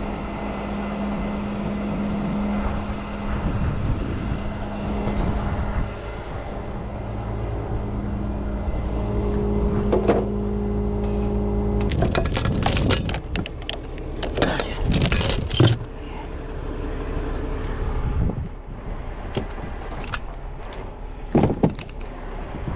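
A truck engine running steadily under load, with bursts of metal clanking and jangling from about halfway through for several seconds, and once more near the end.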